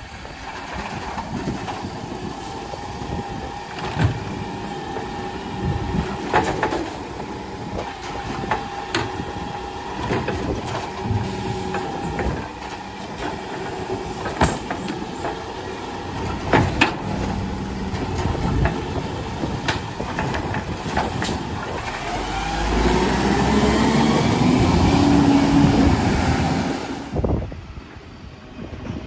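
Garbage truck at work: engine running with a steady whine and several sharp metallic clanks, then the engine revving up for a few seconds near the end. Wind buffets the microphone.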